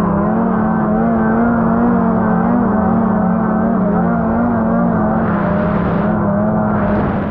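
Two-stroke snowmobile engine running at a steady cruise, its pitch wavering slightly up and down, then stopping abruptly near the end.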